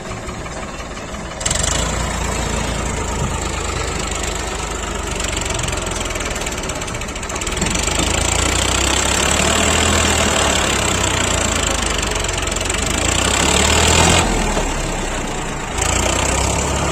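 Heavy diesel engine running steadily. It grows louder about halfway through, and its sound shifts abruptly a few times.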